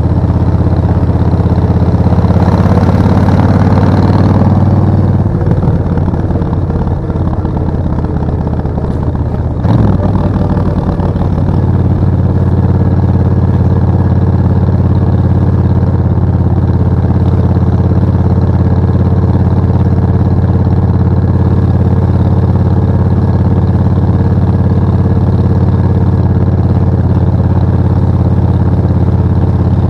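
Suzuki VS1400 Intruder's 1360 cc V-twin engine: it pulls harder and louder briefly near the start, then its pitch falls as it eases off, a sharp clunk sounds about ten seconds in, and after that it runs at a steady pitch.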